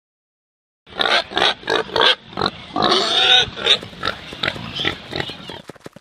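Pig grunting: a run of short grunts starting about a second in, then a longer drawn-out call with more grunts after it. Just before the end, a quick, even ticking begins.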